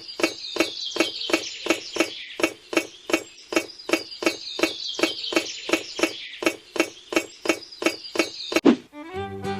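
Steady rhythmic knocking, about four sharp strikes a second, over a high whine that falls in pitch and starts again a few times; one louder crack near the end.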